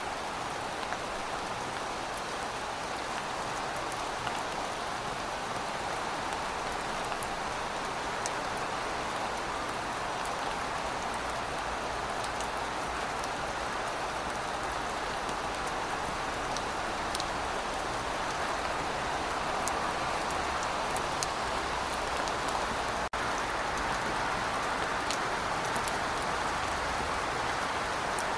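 Steady rain falling: an even hiss with scattered individual drops ticking on a surface, and a split-second dropout about two-thirds of the way through.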